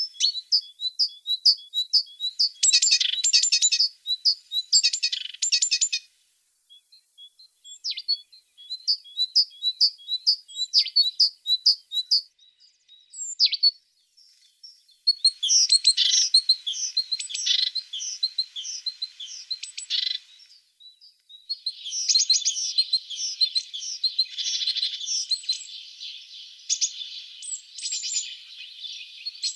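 Tits singing: quick series of high, repeated chirping notes and trills in bursts of a few seconds, broken by short pauses, becoming a denser run of overlapping chatter in the second half.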